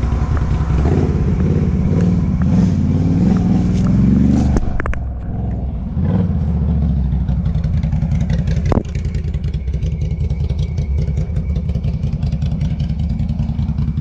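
ATV engine running, revving for the first few seconds, then dropping back to a steady idle about a third of the way in. A couple of sharp knocks come over it.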